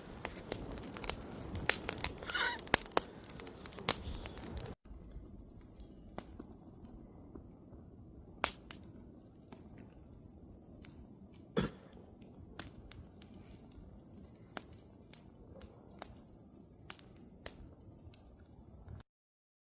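Wood campfire crackling, with sharp snaps and pops over a low hiss. It is busier for the first few seconds, then turns quieter with scattered pops after a sudden cut, and stops abruptly near the end.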